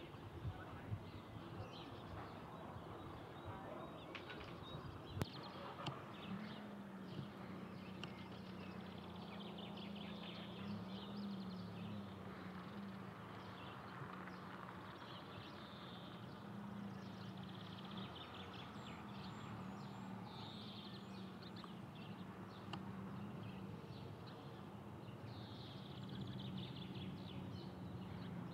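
Birds chirping and calling in the background, with a faint steady low hum that comes in about six seconds in.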